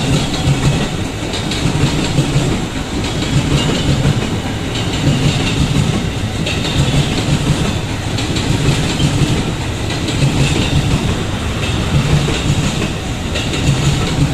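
JR 205 series electric multiple-unit train running past close by, its wheels clattering over the rail joints in a repeated clickety-clack over a steady loud rolling noise.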